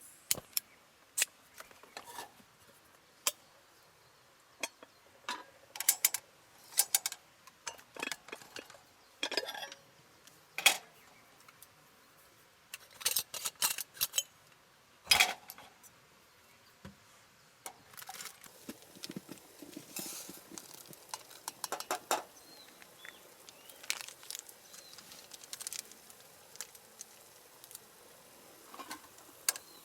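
Cooking utensils and cookware clinking and knocking at irregular intervals, with softer rustling and ticking in the second half.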